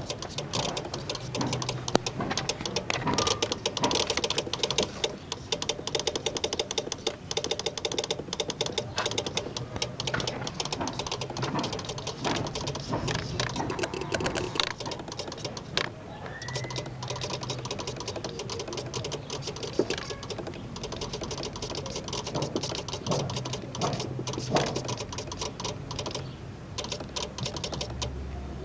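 Citroën BX 16v fuel injection relay chattering with the ignition on, a rapid, irregular stream of clicks, together with the idle control actuator working irregularly. It is the strange injection noise the owner is trying to trace.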